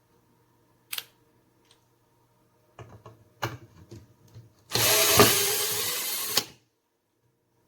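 A Bosch EasyImpact 18V-38 cordless drill runs loudly for about two seconds near the end, then stops abruptly. Before it come a single click and a few knocks from handling the tool.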